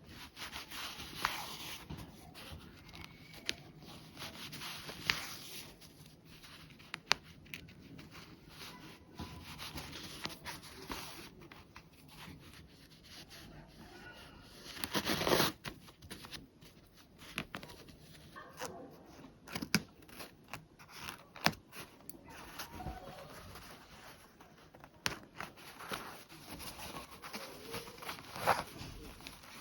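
Fabric being handled and moved about during dressmaking, with scattered light clicks and one louder rustle about halfway through.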